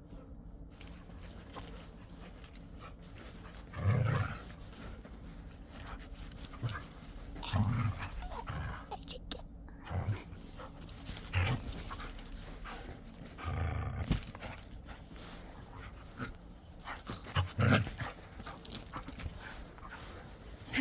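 Jindo mix dog vocalising in about six short, low bursts spread over the stretch.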